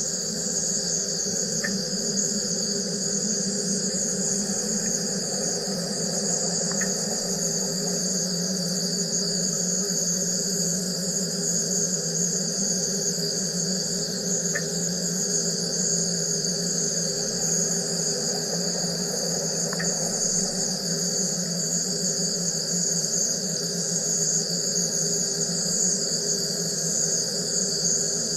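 Wire EDM (wire electrical discharge machine) running: a steady high-pitched buzz over a lower hum, with a few faint single ticks.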